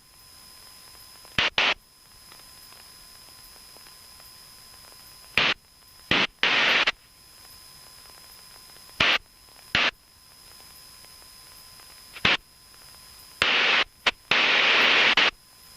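Air traffic control radio hiss broken by about eight short, loud bursts of static with no voice in them, the squelch opening on blank carrier keys. The longest burst, about a second, comes near the end.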